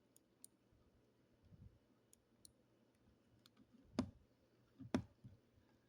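Computer mouse clicking: scattered faint clicks, then two louder clicks about a second apart near the end, against a quiet room.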